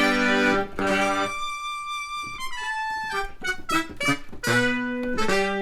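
Electronic keyboard playing held chords, then a quick run of notes stepping down in pitch in the middle, then held chords again.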